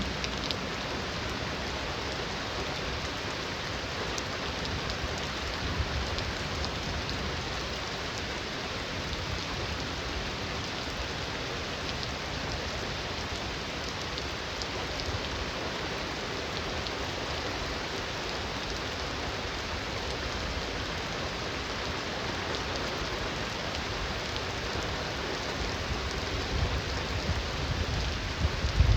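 Heavy rain falling steadily, with a low rumble of distant thunder building near the end.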